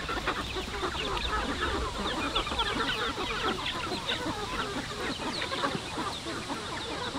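A flock of chickens clucking: many short calls overlapping in a continuous busy chatter.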